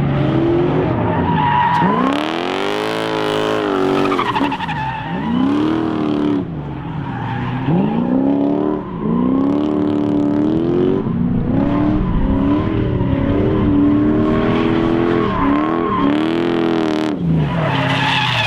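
Lexus 1UZ V8 in a Mazda B2200 drift truck, revving up and falling back over and over as it drifts, with tires squealing and skidding.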